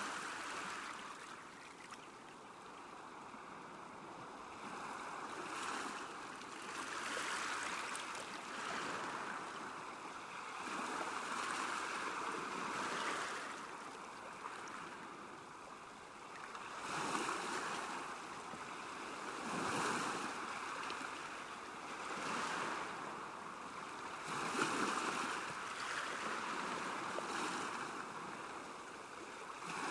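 Small waves lapping at a lake shore, swelling and fading every two or three seconds.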